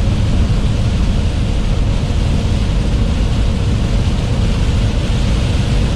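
Truck cab interior while driving in the rain: a steady low engine and road rumble with an even hiss of rain and tyre spray on the wet highway.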